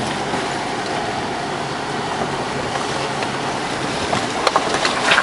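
Four-wheel drive moving over a rough dirt track, a steady noise of tyres and engine. From about four seconds in, a run of sharp clicks and knocks from stones and bumps.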